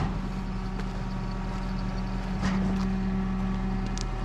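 Car running, heard from inside the cabin: a steady engine and road hum, with two brief knocks, one at the start and one about two and a half seconds in.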